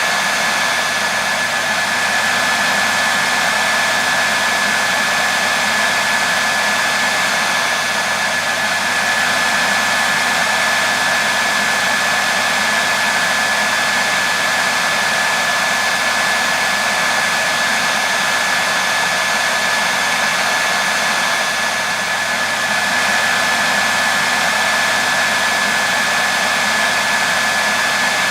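Hair dryer running continuously: a steady rush of blown air with a thin, constant whine over it.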